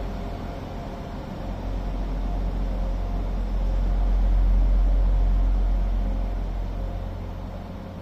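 Train running at a station: a steady low rumble with a faint hum, swelling in the middle and easing off toward the end.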